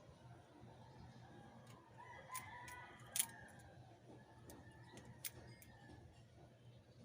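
A rooster crowing faintly, one call held for about a second starting around two seconds in. A few sharp clicks, the loudest just after the crow ends.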